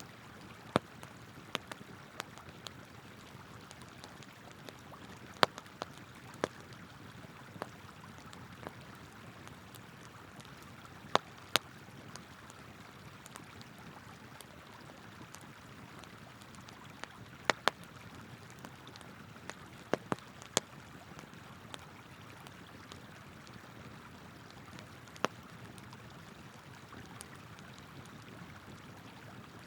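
Wood fire crackling with sharp, irregular pops over the steady rush of flowing river water.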